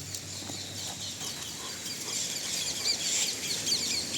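Chickens clucking, with many short, high chirps that grow busier about halfway through.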